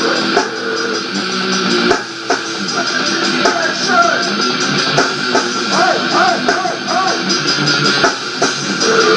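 Rock band demo recording playing, with guitar and drums; a few sliding notes come in about six seconds in. Thin sound with almost no deep bass.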